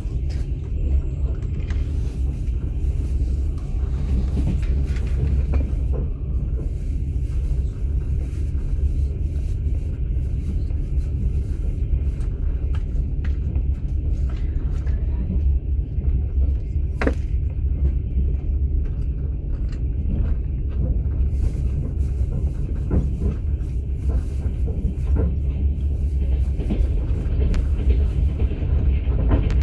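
Steady low rumble of a passenger train's running gear, heard from inside a platzkart sleeping carriage, with scattered light clicks and rattles. One short, sharp squeak a little over halfway through.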